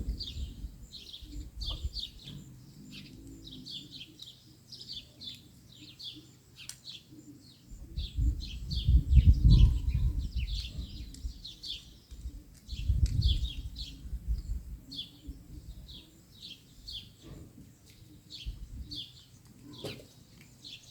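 Small birds chirping steadily, short high chirps repeating two or three times a second. Two louder low rumbles come in midway.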